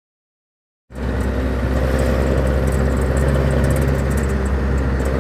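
Dead silence for about a second, then a motor vehicle's engine running steadily: a loud, even, low drone.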